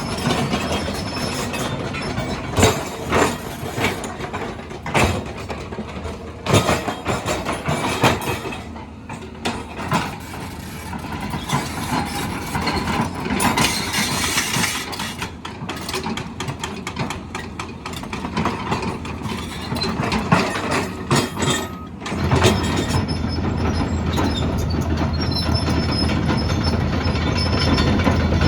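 Heavy construction machinery working: steady engine noise under many sharp metallic clanks and knocks. About three quarters of the way through, the sound shifts to a louder, deeper engine drone.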